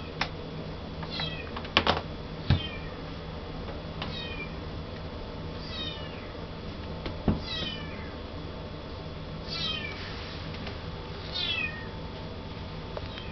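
Russian Blue kitten meowing over and over, thin high mews that fall in pitch, about one every two seconds. A few sharp taps or knocks come in the first few seconds, the loudest sounds here.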